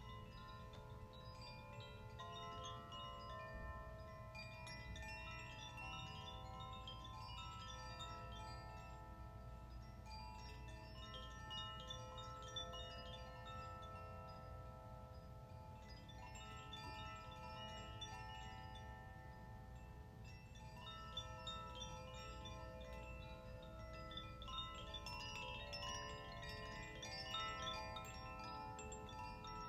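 Chimes ringing in swells of many light strikes every several seconds, their long overlapping tones sustaining in between, over a steady low hum.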